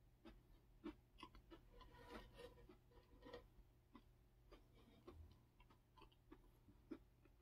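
Faint close-up chewing of a soft blueberry-topped waffle, with scattered soft irregular mouth clicks.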